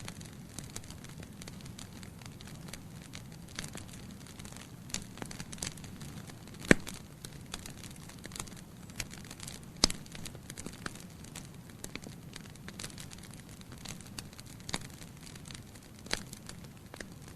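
Wood fire burning in a fireplace: a steady low rumble of flames with irregular crackles and snaps from the logs, and two sharp pops, one a little before the middle and one a few seconds later.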